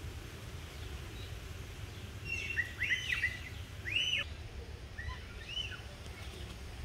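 Birds chirping: a quick run of short, arching chirps a little over two seconds in, another around four seconds, and a few softer ones around five seconds, over a steady low rumble.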